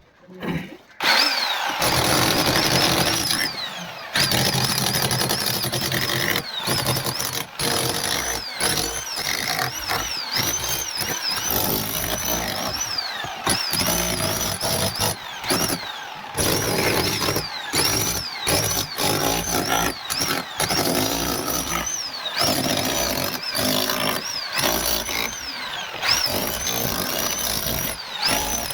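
Electric angle grinder with a masonry blade cutting a pipe groove into a wall, starting about a second and a half in. The motor whine sags and recovers over and over as the blade bites into the masonry, with short breaks where the cut eases off.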